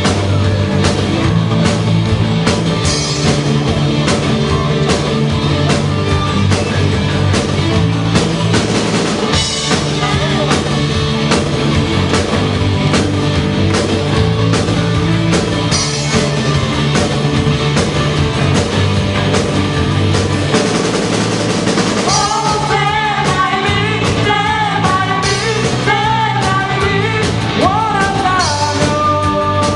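Amateur rock band playing live: drum kit keeping a steady beat under bass and guitar. A singer's voice comes in about 22 seconds in, with a wavering vibrato on held notes.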